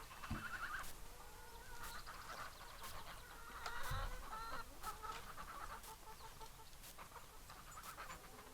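Chickens clucking, with many short calls overlapping, and a few sharp clicks among them.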